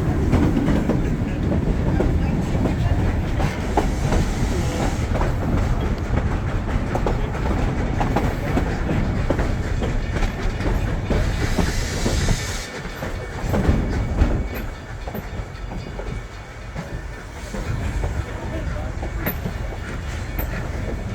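Durango & Silverton narrow-gauge train running along the track: a steady rumble with the wheels clicking over the rail joints at irregular intervals.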